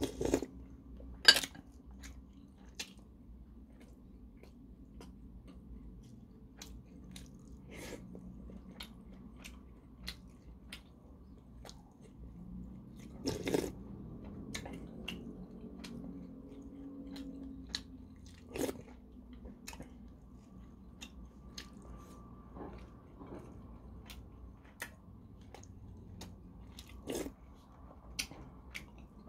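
Close-up chewing and wet mouth sounds of a man eating spoonfuls of kimchi stew with rice, with many short sharp smacks and clicks spread unevenly throughout, a few of them louder.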